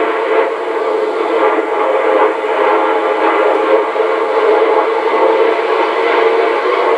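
Jet aircraft engines running, a steady loud rushing roar with a faint whine through it.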